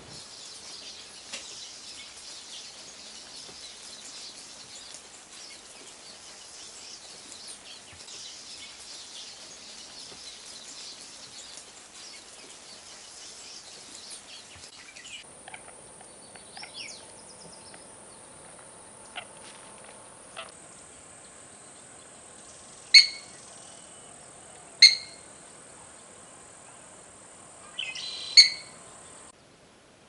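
Wild birds calling: for about fifteen seconds a dense high hiss dotted with faint chirps, then a quieter stretch over a steady high whine, broken near the end by three loud, sharp bird calls a couple of seconds apart.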